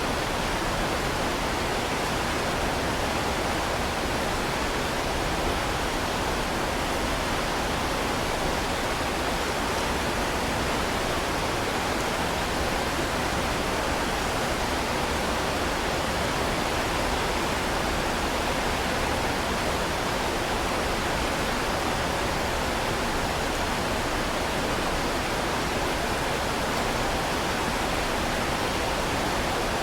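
Heavy rain falling, a steady even wash of noise with no single drops or breaks standing out.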